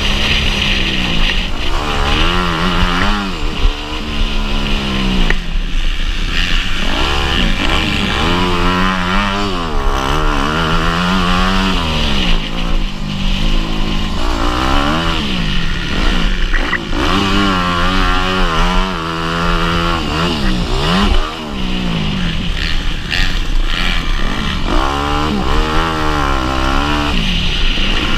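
Motocross bike engine revving hard and backing off again and again as it accelerates, shifts and slows through the track, the pitch rising and falling several times.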